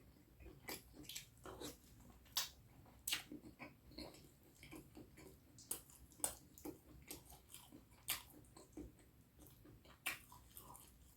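Close-up wet chewing and lip smacking of a person eating curry and rice, heard as irregular sharp wet clicks a few times a second.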